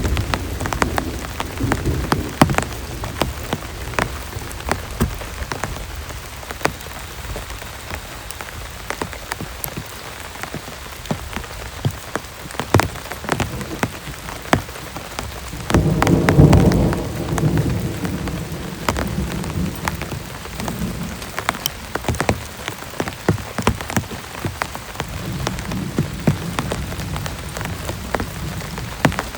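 Heavy rain falling, with many sharp individual drops striking close by. A low rumble of thunder swells about halfway through, and a weaker one comes near the end.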